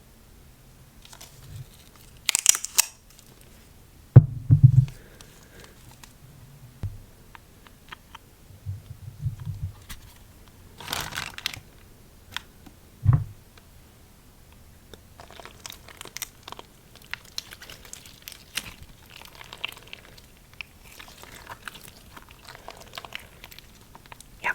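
Hands handling slime and its container: scattered crinkling and crackling, with a few soft thumps.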